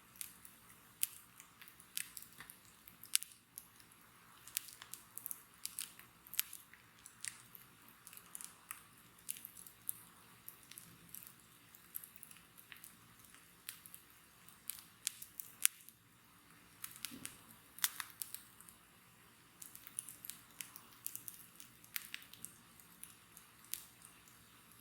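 Wood bonfire crackling: irregular sharp pops and snaps, at times several a second, over a faint steady hiss of the burning.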